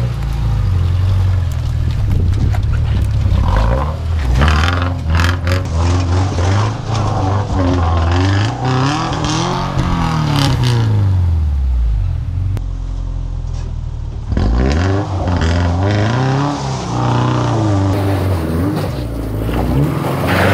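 A Subaru's boxer engine revving up and down in pitch as the car is driven over a rough off-road track. Sharp knocks and scrapes from the car working over the ground cluster around four to seven seconds in, and the engine briefly drops away about two thirds of the way through before picking up again.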